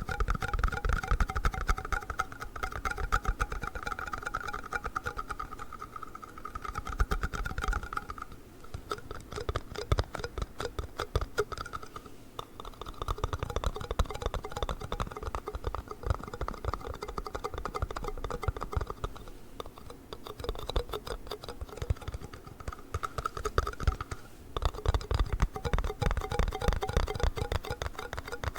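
Fast, dense tapping and clicking on plastic yogurt cups, with a few brief pauses.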